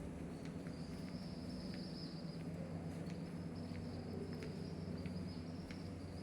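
Insects chirring in a steady high-pitched drone that starts just after the beginning, over a steady low hum with scattered faint clicks.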